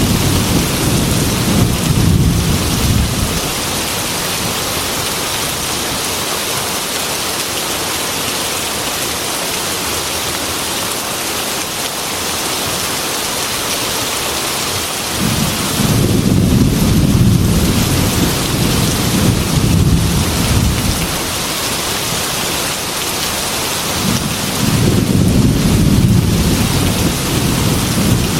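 Heavy rain with thunder. The rain hisses steadily throughout, and deep rolls of thunder rumble under it three times: at the start, from about halfway for several seconds, and again near the end.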